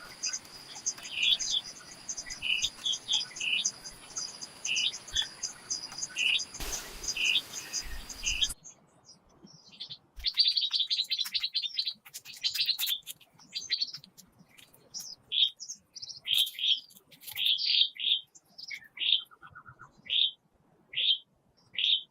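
Small songbirds chirping in short, repeated high calls. For the first eight seconds a steady, fast high trill and a background hiss run underneath. A brief rush of noise then comes before the background drops away abruptly, leaving separate chirps.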